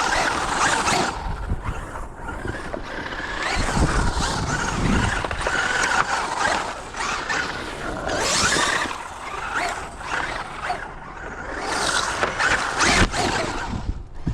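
Traxxas Unlimited Desert Racer RC trophy truck driving on dirt. The electric motor's whine and the tyre noise swell and fade several times as it runs back and forth.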